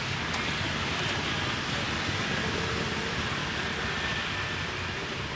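Steady street ambience: an even wash of traffic noise, with a faint click about a third of a second in.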